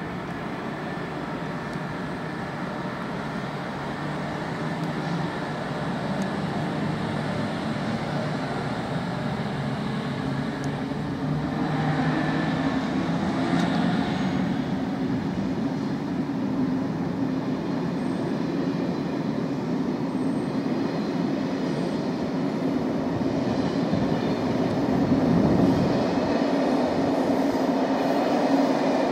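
Electric train running, a steady hum that rises in pitch and grows louder.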